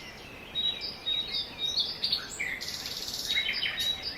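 Birdsong: quick, repeated short chirps and thin whistled notes, several a second. About two and a half seconds in comes a brief, higher rasping buzz, followed by a few clicks.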